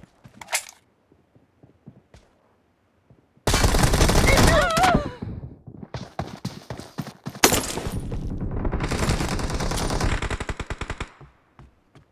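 Shooter video game gunfire: a sudden loud blast about three and a half seconds in, then long bursts of rapid automatic fire that stop about a second before the end.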